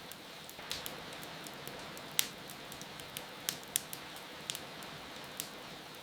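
Wood fire crackling with scattered sharp pops, the loudest about two seconds in, over a steady hiss of rain.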